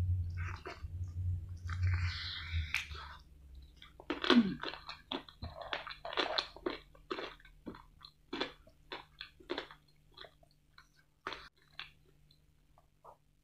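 Crispy, sauce-coated fried chicken being bitten and chewed close to the microphone: a run of crunches and wet mouth clicks, densest in the middle and thinning out near the end.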